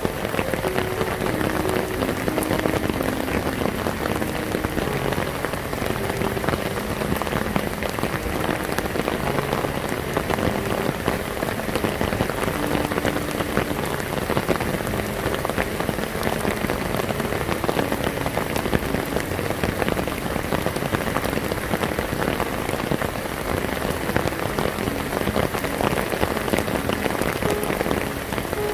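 Heavy rain pouring steadily: a dense, even hiss of drops hitting surfaces, thick with fine ticks.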